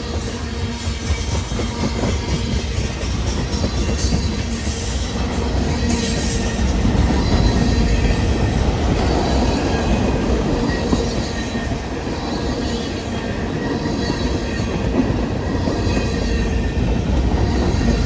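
Union Pacific freight train rolling past: a steady rumble of railcar wheels on the rails, with clickety-clack over the rail joints.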